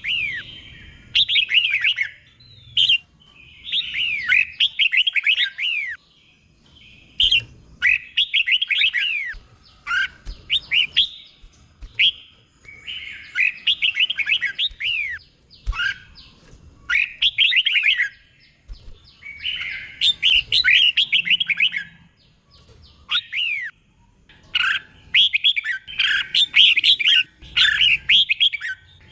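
Red-whiskered bulbul singing: repeated phrases of quick, high whistled notes sweeping up and down, each phrase a second or two long with short pauses between. The phrases are doubled, the 'เบิ้ล' song style prized in caged bulbuls.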